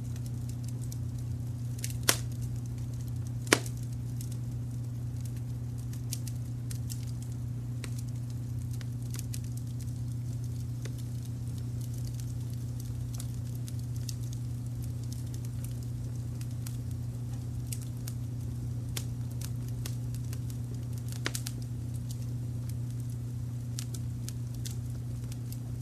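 Wood fire crackling with many small ticks and snaps. Two sharp pops come in the first few seconds and another later on, over a steady low rumble of brown noise mixed in beneath the fire.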